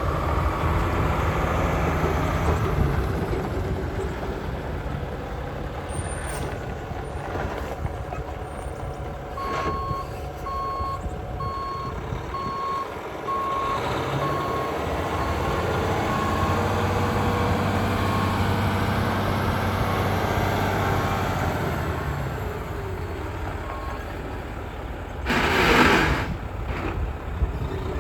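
The diesel engine of a 2014 Mack CXU613 day cab tractor running and rising and falling in revs. From about ten seconds in, a reversing beeper sounds about once a second and stops around twenty-four seconds. Near the end comes one loud burst of air hiss from the air brakes.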